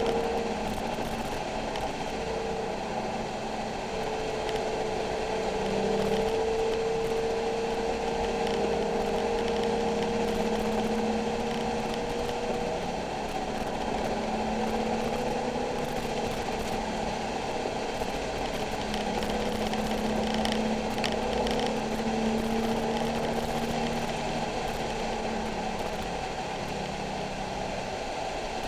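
Nissan 370Z's 3.7-litre V6 engine running under load on track. Its note climbs slowly and drops back several times as it pulls through the revs and shifts.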